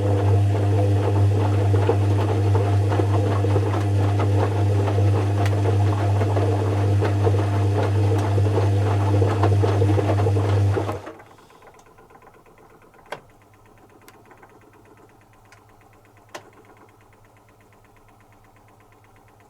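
Zanussi FC1000 compact washing machine running a wash: a steady hum with a low drone and rattle for about eleven seconds, then it stops suddenly, leaving a pause broken by a few faint clicks. This stop-and-start pattern is typical of the drum being turned in bursts during the wash.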